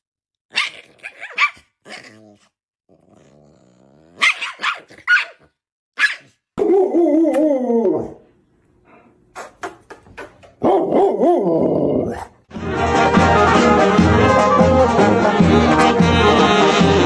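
A dog giving drawn-out vocal calls, the first sliding down in pitch, after a few scattered sharp clicks. Music comes in and carries on from about twelve seconds in.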